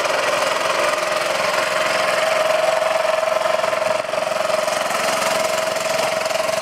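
Small 6.5 horsepower single-cylinder four-stroke engine, a Honda-type clone, running steadily at a constant speed with a held, unchanging tone.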